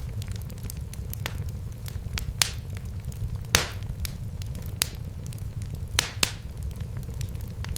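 Fireplace fire crackling: a steady low rumble of flames with frequent sharp pops, the loudest about a third and three quarters of the way through.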